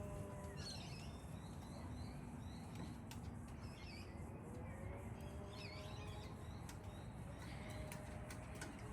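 Faint high chirps from birds, a few short calls spread out over several seconds, over steady outdoor background noise with a few small clicks.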